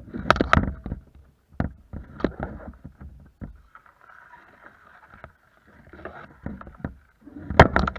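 Kayak on the water: a run of irregular knocks and splashy thumps against the hull, loudest about half a second in and again near the end.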